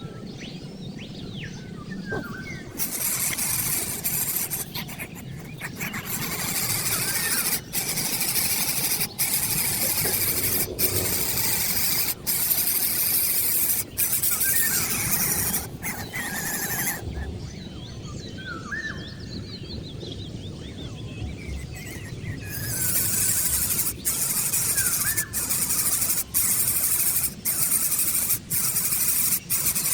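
Birds calling with short, high, squeaky rising notes over a steady hiss.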